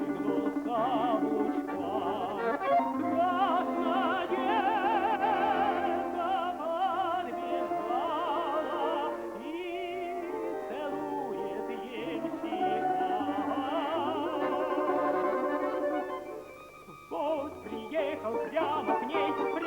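Operatic tenor voice singing a Russian romance with wide vibrato on long held notes, over an instrumental ensemble accompaniment. The sound drops briefly near the end, then the music resumes.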